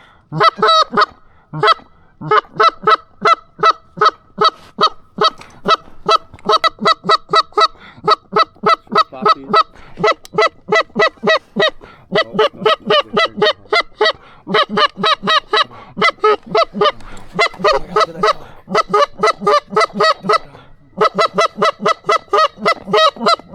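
Goose call blown in a fast, steady run of short honks and clucks, about four a second, with brief pauses, calling in Canada geese.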